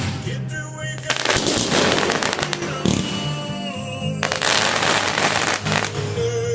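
Fireworks crackling in three dense stretches of rapid pops, with music playing underneath.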